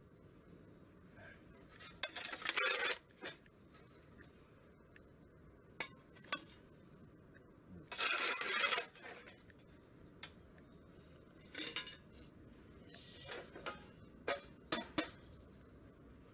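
Metal cookware and cutlery being handled: scrapes of about a second each, about two seconds in and again about eight seconds in, then a few short clinks near the end.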